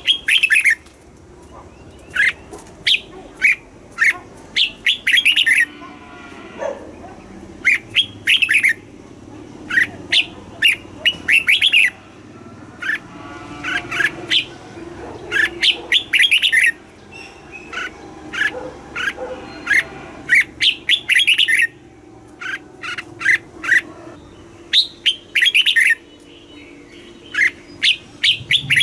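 Red-whiskered bulbul singing: short phrases of quick, bright notes, repeated every second or two with brief pauses between them.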